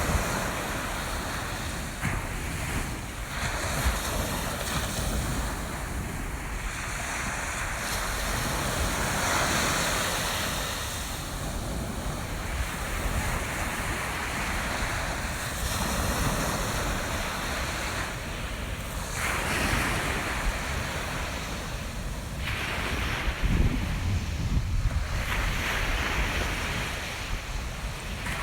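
Ocean surf breaking and washing up a sandy beach, swelling and fading every several seconds, with wind buffeting the microphone.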